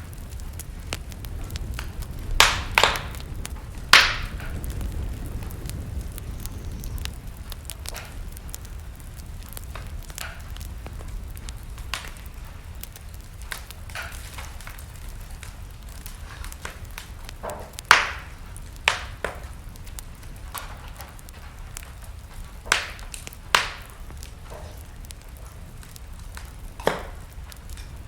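Wood fire burning in a fireplace: a steady low rumble of the flames with irregular sharp crackles and pops of burning logs, several louder pops at scattered moments.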